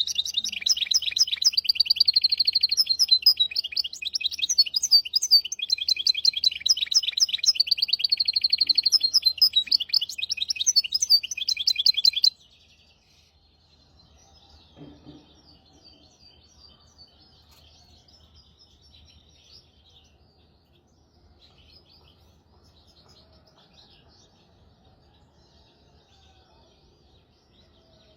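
Hybrid finch singing a fast, continuous song of rapid trills and twitters. The song cuts off abruptly about twelve seconds in, leaving only faint, scattered chirps.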